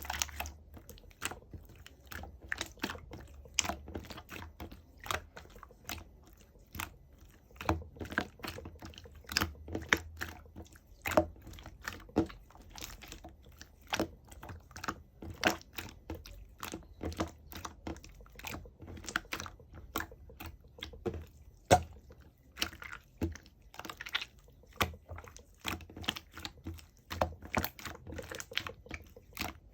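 Slime being squished and pressed by hand, making irregular sticky clicks and pops, a few a second, with one louder pop past the middle.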